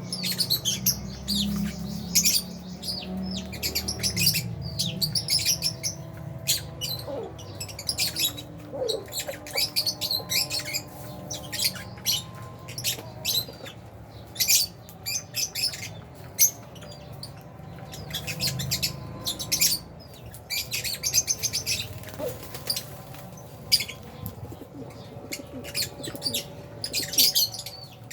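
A flock of lovebirds (Fisher's and albino lovebirds) chirping constantly, many short, high, overlapping chirps, with bursts of wing flapping near the start.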